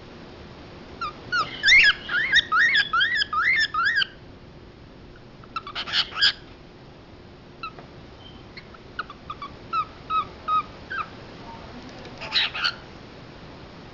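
Male cockatiel whistling a fast run of rising-and-falling notes, then giving a harsh call about six seconds in. A second, sparser run of short whistles follows, and another harsh call comes near the end.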